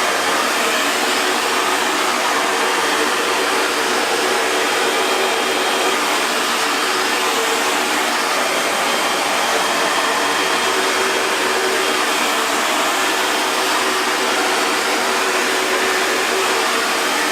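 Hair dryer running steadily: an even rush of blown air with a faint steady hum underneath, unchanging throughout.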